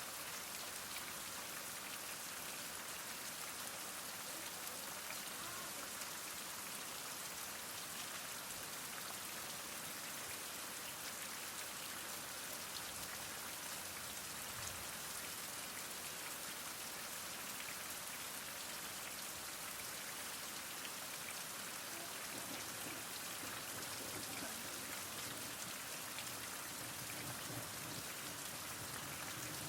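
Heavy rain falling steadily: an even, unbroken hiss of rain, mostly in the high range.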